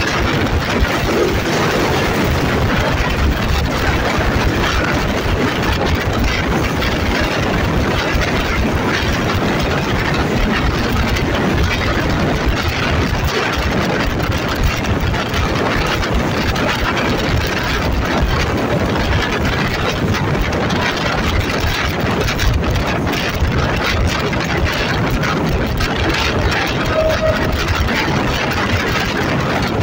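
Diesel engine of an Alstom diesel-electric locomotive running steadily under way, heard loud and close from the passenger coach coupled right behind it, together with the running noise of the train's wheels on the rails.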